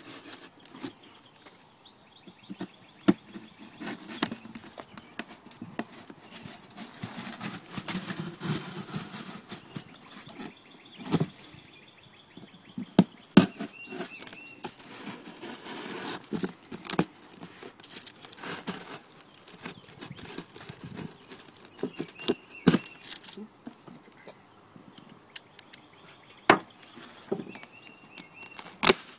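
A box cutter cutting through a foil-covered cardboard box, with scraping and scratching and irregular sharp knocks as the box is handled.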